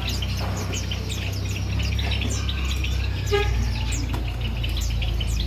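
Many small songbirds chirping at once, a dense chorus of short, quick down-sweeping chirps, over a steady low hum.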